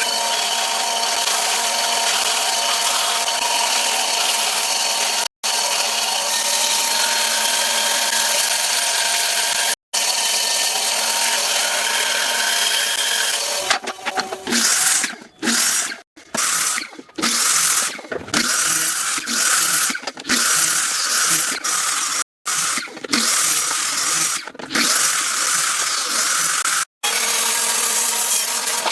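Power tools running on wood: a steady whine with a few held tones, then stopping and starting in short bursts in the second half. The sound is broken off abruptly several times.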